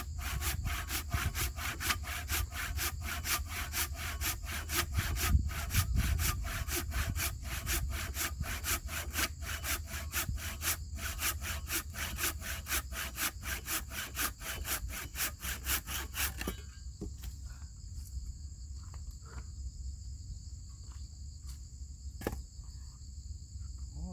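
Hand saw cutting through the wood of a typhoon-felled tree in fast, even back-and-forth strokes, stopping about two-thirds of the way through. After that, a steady high insect drone and a few light knocks.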